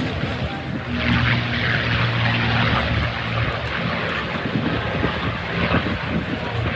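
A P-51D Mustang's Merlin V-12 engine and propeller droning steadily as the fighter flies past, growing a little louder about a second in.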